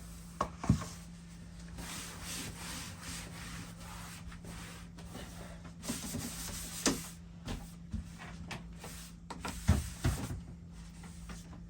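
A cloth wiping down a surface with cleaner in rubbing strokes. A few sharp knocks come near the start, about seven seconds in and about ten seconds in.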